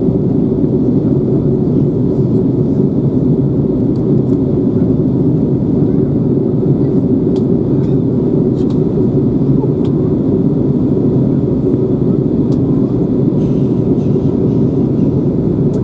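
Steady low rumble of engine and airflow noise inside the cabin of an Airbus A321 descending to land, with a few faint clicks.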